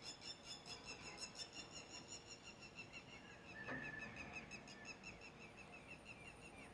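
Small bird calling faintly with a rapid, even series of high chirps, about five a second, and a single short held whistled note about three and a half seconds in.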